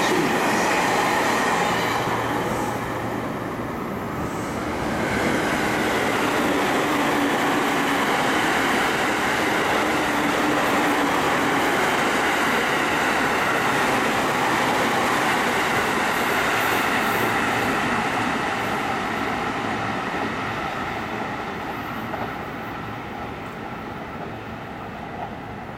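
Electric passenger trains running through at speed: a steady rush and rumble of wheels on rail. There is a short lull about three seconds in, then a long train goes by and its sound fades away over the last several seconds.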